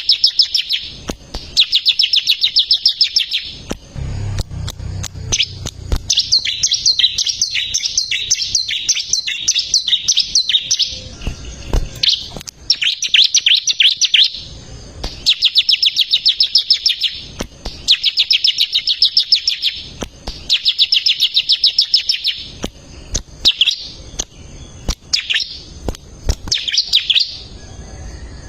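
Bar-winged prinia (ciblek) singing continuously: rapid trains of high, chirping notes in bursts of a few seconds, separated by short pauses.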